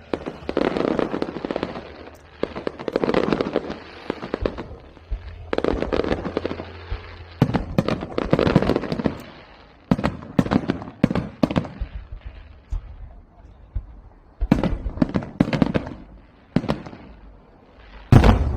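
Firecrackers and fireworks going off in rapid crackling volleys of a second or two each, with one sharp, loud bang near the end.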